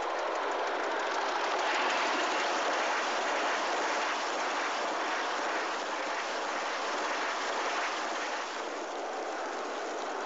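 A train running: a steady rushing noise with no clear beat.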